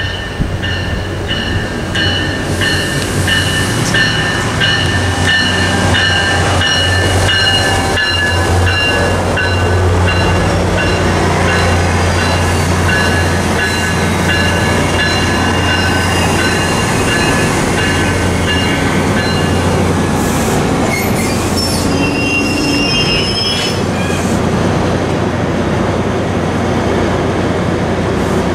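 MARC commuter train of bilevel coaches rolling past along the platform, with a low rumble and regular clicks of wheels over the rails. A steady high-pitched wheel squeal sags slightly and stops about two-thirds of the way through, and a short, higher squeal follows.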